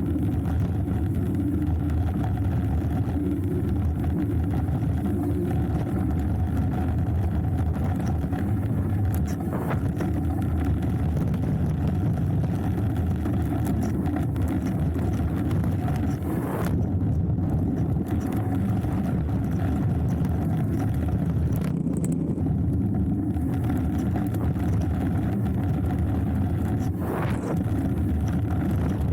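Steady low rumble of rushing wind and tyres from a hardtail mountain bike descending a dirt trail, with a few brief rattles or clatters along the way.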